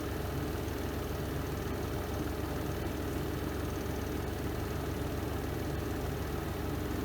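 The spin drum of a Renova semi-automatic twin-tub washing machine spinning at a steady speed, giving a constant low hum.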